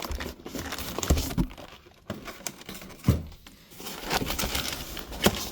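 Plastic packaging crinkling and rustling as spools of 3D printer filament are handled, with a few sharp clicks of the spools knocking.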